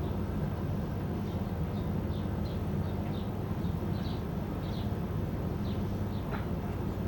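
Small birds chirping in short, high, repeated notes, with one falling call about six seconds in, over a steady low rumble.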